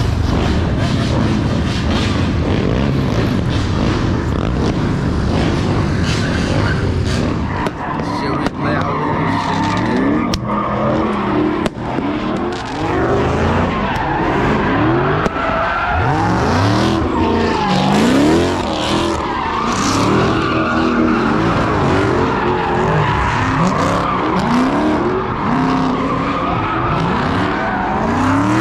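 Car engine revved hard over and over, its pitch climbing and dropping repeatedly, mixed with tyre squeal and a loud rushing noise.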